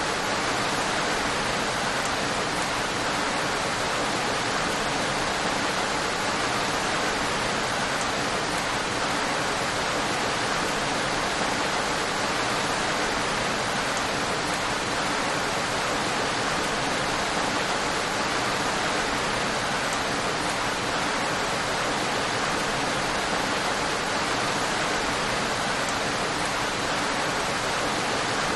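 Steady heavy rainfall, an even hiss without distinct drops or changes.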